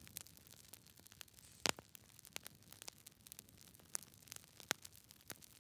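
Wood fire crackling: irregular sharp pops and snaps of burning logs over a faint steady hiss, with the loudest double pop about a second and a half in.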